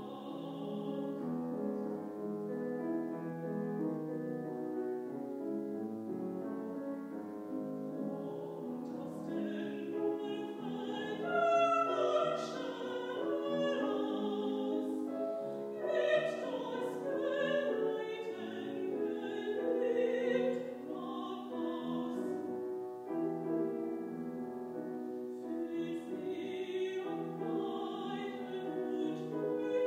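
A woman sings a classical piece in operatic style with vibrato, accompanied by piano.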